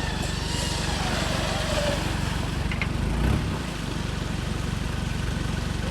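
Off-road 4x4 engine running steadily at low revs, with a brief louder surge about three seconds in.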